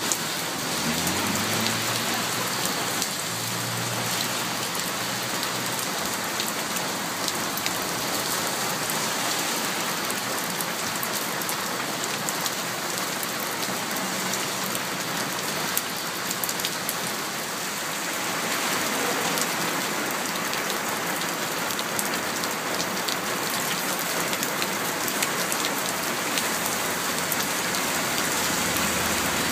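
Heavy rain splashing steadily onto a water-covered metal patio table, with runoff from an awning pouring onto the tabletop. A dense, even patter of many drops.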